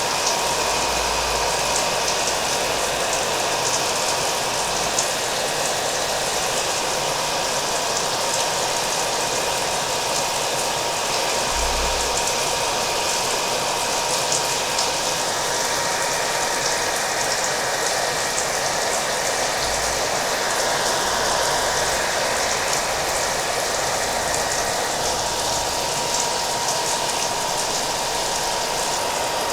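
Hair dryer running steadily with a constant whine, mixed with the sound of falling rain; an even, unbroken wash of noise.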